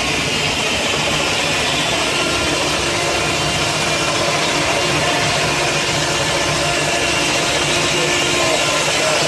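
Sawmill blade, belt-driven by a 1926 Keck Gonnerman steam traction engine, cutting steadily through a log.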